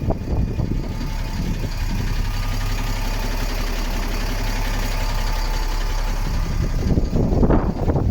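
Diesel engine of a DAF CF 65.220 truck idling steadily, with irregular louder low rumbles near the start and near the end.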